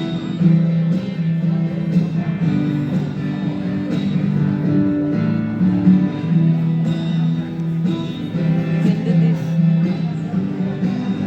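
Live music: an instrumental break of strummed guitar chords at a steady rhythm, with no singing.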